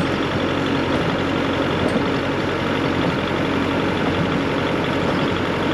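A heavy vehicle's diesel-type engine running steadily at a constant speed, with a steady hum through it.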